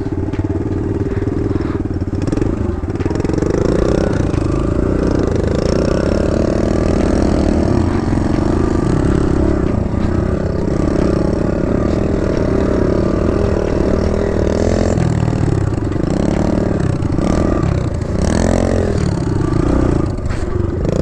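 Kawasaki KLX110 dirt bike's small single-cylinder four-stroke engine running under way, its pitch climbing about three seconds in and then holding steady. In the last several seconds the revs rise and fall again and again as the throttle is worked.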